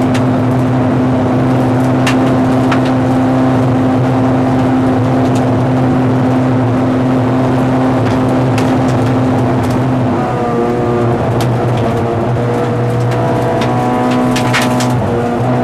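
Lada 2108 rally car's four-cylinder engine heard from inside the cabin, running at a steady pitch on a gravel road, with scattered sharp clicks of gravel striking the car. About ten seconds in, the engine note changes, dropping a little and wavering.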